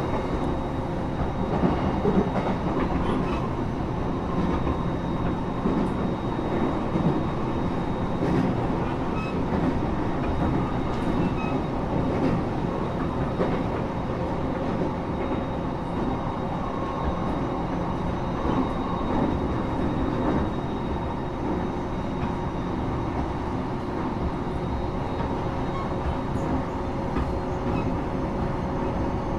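Inside a Japanese local train carriage running between stations: the steady rumble of wheels on the rails and the carriage, with a faint steady whine and a few light clicks from the track.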